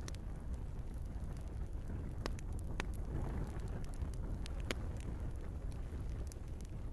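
Log fire burning in a fireplace: a steady low rush of flame with sharp crackling pops scattered through, a few of them louder.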